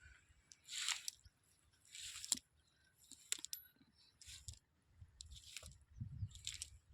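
Six soft wet swishes or splashes, evenly spaced about a second apart, like wet steps or something moving through shallow water or mud.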